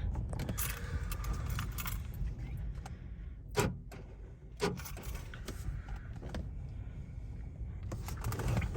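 Strong gusty wind buffeting the microphone as a steady low rumble, with scattered small clicks and rattles and two sharper knocks about three and a half and four and a half seconds in.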